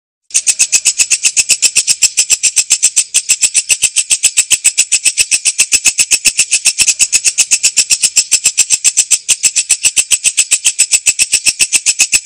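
Walang kecek bush cricket stridulating: a loud, rough, rapid rasping of even pulses at about seven a second, starting just after a brief pause.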